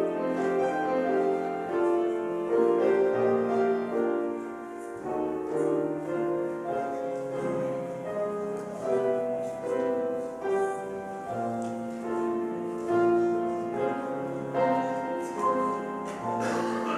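Piano playing slow, gentle instrumental music with sustained chords and a moving bass line.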